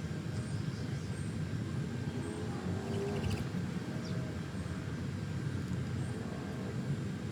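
Faint, short, high bird chirps over a steady low rumble.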